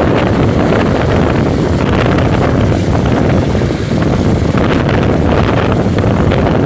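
Steady noise of a moving road vehicle, with wind buffeting the microphone.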